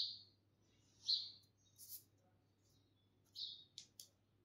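A bird chirping faintly, a few short high chirps spaced a second or two apart.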